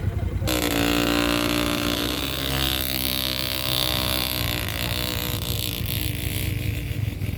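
A motorcycle engine running hard under throttle. It comes in suddenly about half a second in, holds a fairly steady pitch, then eases off about five seconds in, over a low rumble throughout.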